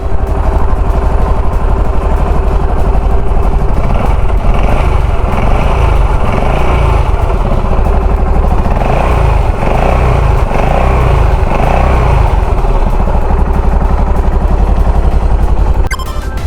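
Yamaha SR400's air-cooled single-cylinder engine running, revved in a series of short throttle blips from about four seconds in to about twelve seconds, each falling back to idle. The engine sound ends near the end as music comes in.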